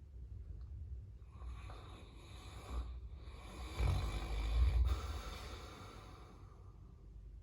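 Caucasian Shepherd dog snoring in its sleep: a softer snoring breath about a second in, then a longer, louder snore with a deep rumble that fades out near the end.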